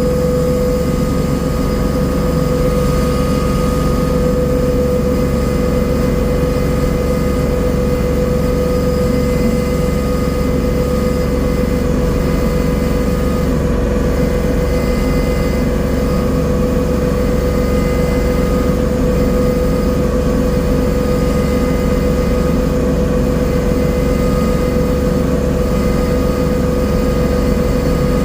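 Tiller engine running steadily at a constant pitch while working garden soil.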